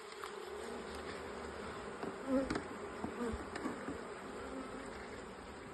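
Honeybees buzzing steadily around an opened hive as the frames are worked, with a few faint knocks from handling.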